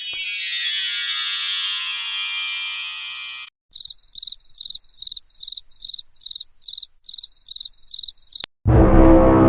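A shimmering chime-like sound effect of many high tones sliding downward and fading out, then a cricket chirping in evenly spaced chirps, a little under three a second, for about five seconds: the 'crickets' awkward-silence sound. Music cuts in near the end.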